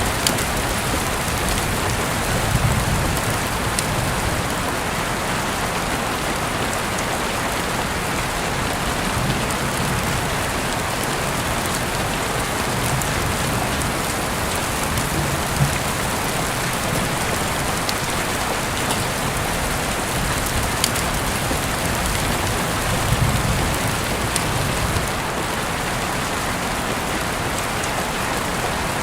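Heavy rain falling steadily, with scattered sharper drop hits and a few brief low rumbles.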